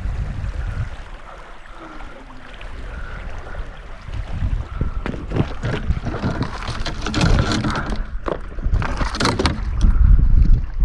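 Wind rumbling on the microphone, with a run of splashes and knocks from water and handling at a kayak during the second half.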